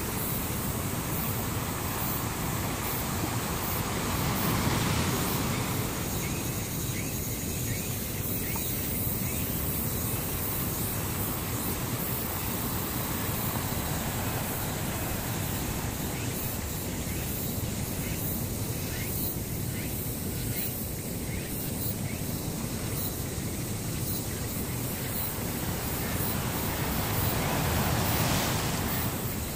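A steady rushing noise that swells briefly about five seconds in and again near the end.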